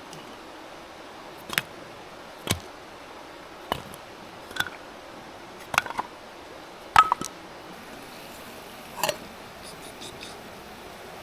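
Small metal camping gear being handled: about seven light clicks and clinks spread out, several with a short metallic ring, over a steady soft hiss.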